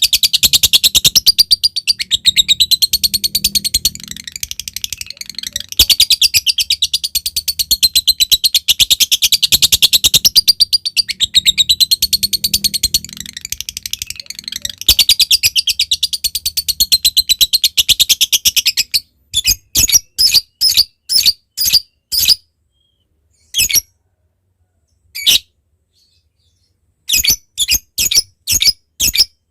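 Lovebird giving a long 'ngekek': a continuous, very rapid, high-pitched chattering trill that swells and dips for most of the time. Near the end it breaks off into separate short sharp calls, about two a second, with pauses between them. This is the kind of song kept to call a rival and set other lovebirds singing.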